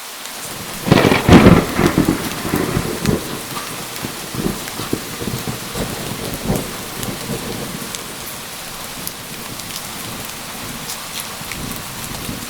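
Heavy rain falling steadily in a thunderstorm, with a loud crack of thunder about a second in that rolls and crackles away over the following several seconds.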